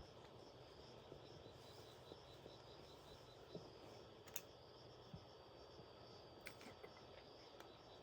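Near silence: faint steady insect chirping, likely crickets, with a few small sharp clicks.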